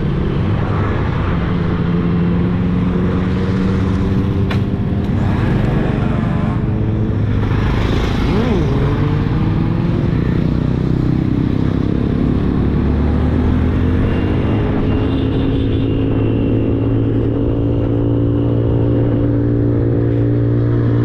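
Motorcycle engine running at road speed, its note drifting slowly up and down with the throttle, over a steady low rush of wind and road noise.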